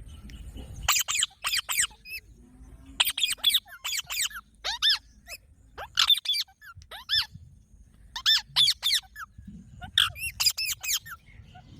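Green parrot giving short, high, squeaky calls in quick runs of two to four, each call falling in pitch, repeated through the whole stretch.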